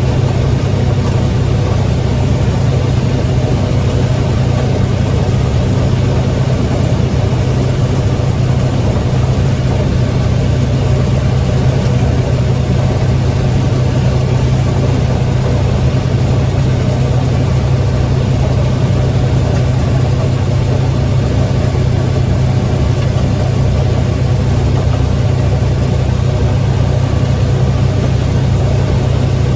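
International Harvester 1460 combine running steadily while harvesting corn: a constant, loud engine and machinery drone with a strong low hum that does not change.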